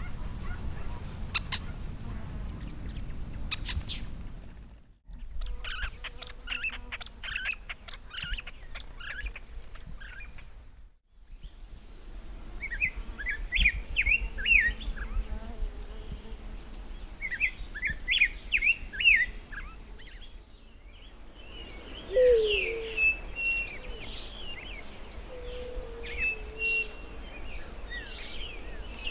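Several wild Tumbesian dry-forest birds singing and calling in separate recordings that change abruptly three times. First come sparse high, thin notes, then fast chattering, then bursts of quick phrases. Last come clear whistled notes over a low, down-slurred call.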